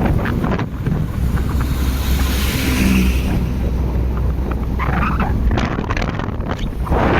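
Wind buffeting the microphone of a rider on a moving motorcycle, rising and falling in gusts. Underneath is a steady low rumble of the bike's running and the road, strongest from about a second in until about five and a half seconds.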